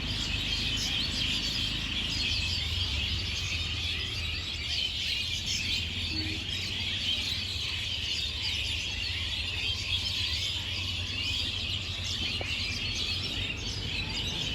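A flock of many small birds chirping at once: a dense, unbroken chorus of short high chirps, over a steady low rumble.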